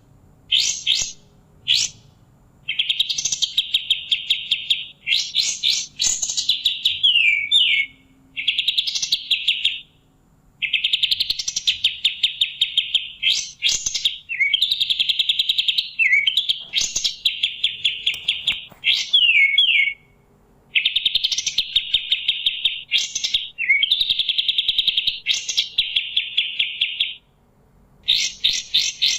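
A kapas tembak songbird singing. It gives repeated phrases of rapid, chattering notes, each a second or more long, often opening with sharp high notes and sometimes ending in a falling slur, with short pauses between phrases.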